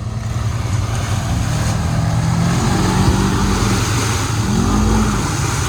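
Side-by-side UTV engine running in mud, its pitch rising and falling a couple of times as the throttle is worked.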